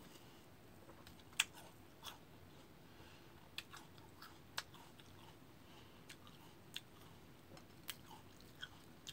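Mouth sounds of a person chewing pieces of cut fruit: faint chewing, broken by about a dozen irregular, sharp crunches and wet clicks.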